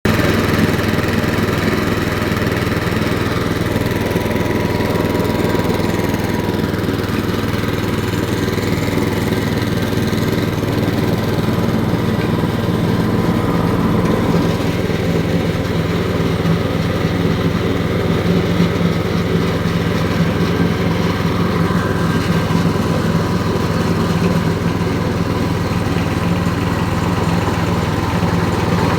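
Motorized block-ice shaving machine running steadily, its drive giving a constant low hum with a noisy rasp above it.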